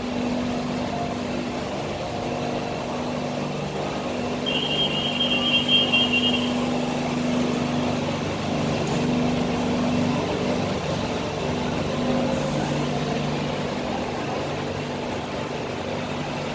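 BTS Skytrain train at the platform giving off a steady low hum. About four seconds in, a rapid high-pitched beeping sounds for about two seconds.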